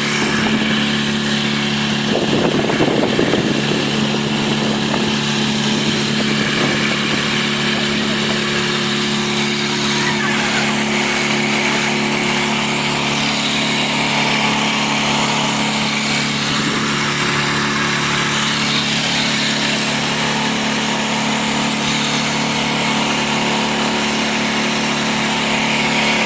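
A small boat's engine running steadily at an even pitch, with water and wind noise over it.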